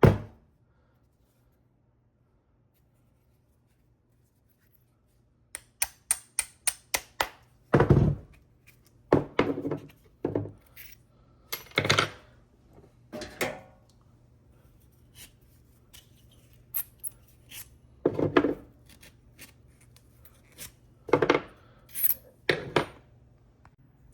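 Small metal parts clinking and knocking as they are handled: a quick run of about eight sharp clicks, then scattered louder knocks with faint ticks between.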